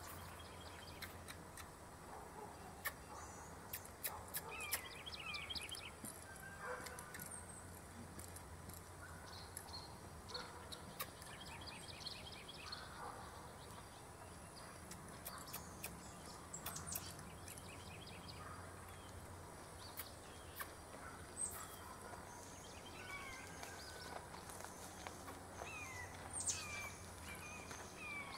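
Outdoor ambience with birds chirping faintly now and then, including a couple of quick trills, over a low steady background hum, with a few light clicks.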